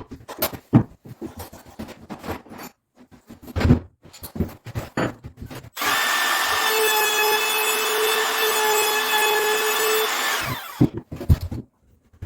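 Several knocks and clicks of tools and wood being handled, then an electric drill runs steadily for about four and a half seconds and winds down as it stops, followed by a few more knocks.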